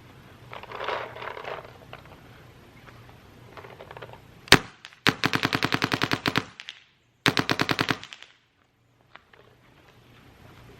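Smart Parts Shocker RSX electronic paintball marker firing, its main board freshly replaced: one single shot, then a rapid string of about ten shots a second, a short pause, and a second shorter string.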